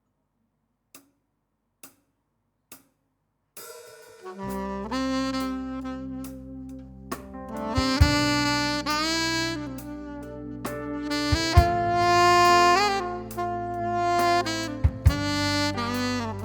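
Three evenly spaced clicks, then a worship band's instrumental intro starts about three and a half seconds in: a saxophone plays the melody over sustained low accompaniment and drums.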